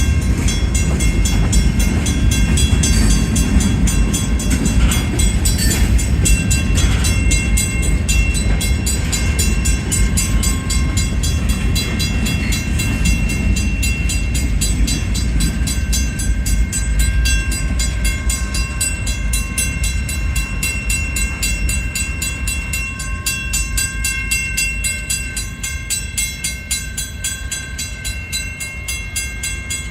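Slow freight train's cars rolling past with a low rumble that eases off near the end as the tail of the train goes by. Railroad crossing bells ring steadily over it.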